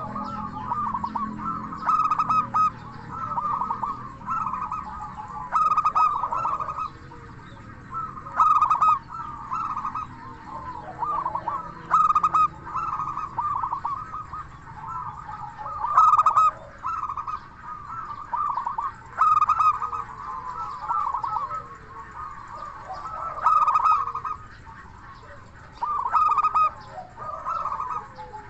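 Zebra dove (perkutut) cooing, repeated phrases of quick staccato notes, a new phrase every second or two.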